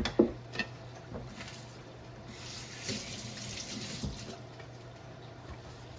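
Kitchen sink tap running for about two seconds as a bowl is rinsed out, after a few sharp knocks of the bowl at the start.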